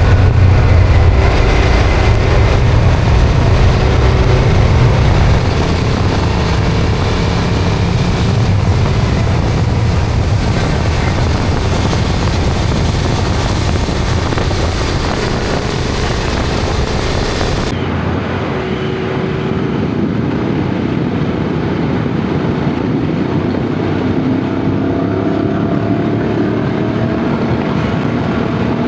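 Yamaha Ténéré adventure motorcycle being ridden, its engine running under way beneath heavy wind and road noise. About two-thirds of the way through the sound changes abruptly and loses its hiss, and near the end the engine note rises as the bike pulls.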